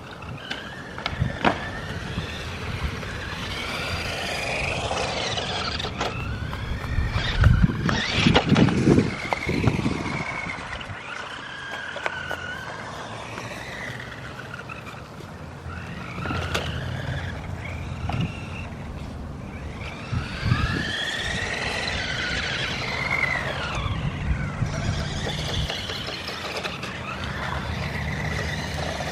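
Electric motor of a remote-control car whining, its pitch rising and falling again and again as the throttle is worked, with scattered knocks and bangs as the car runs over the concrete, loudest about eight seconds in.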